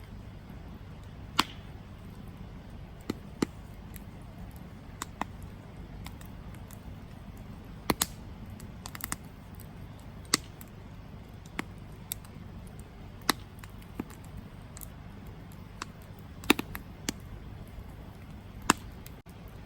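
Campfire crackling: sharp, irregular pops from the burning wood, roughly one a second, some much louder than others, over a steady low rumble.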